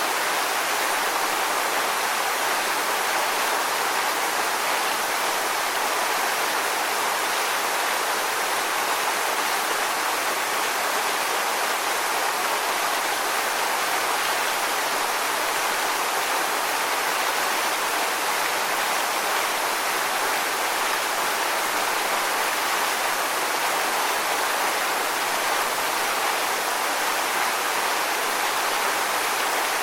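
Steady rushing water: an even, unbroken hiss with no swells or breaks.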